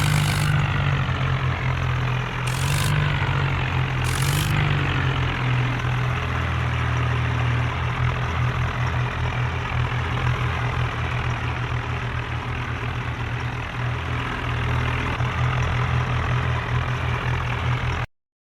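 Tractor diesel engines running hard under heavy pulling load, with three brief surges near the start, then a steady run that cuts off suddenly just before the end.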